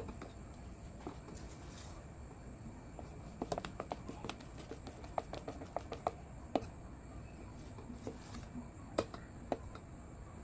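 A pan of melting bar soap and cornstarch solution heating over a low flame, giving off scattered small pops and clicks, thickest in the middle and again near the end, over a faint steady low hum.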